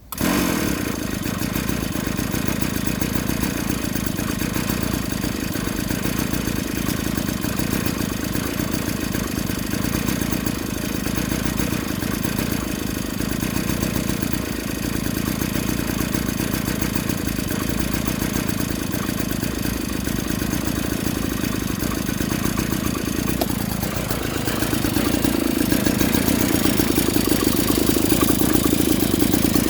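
Small 49cc two-stroke pocket-bike engine running steadily at idle. Its revs rise and it runs a little louder over the last few seconds.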